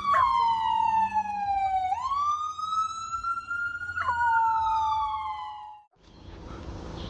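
A dog howling in one long siren-like wail that slides down, swoops back up and breaks downward again, stopping about six seconds in.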